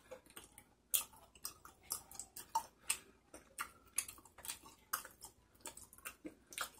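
Close-up chewing of chewy tteokbokki rice cakes, heard as an irregular run of sharp, wet mouth clicks, a few a second.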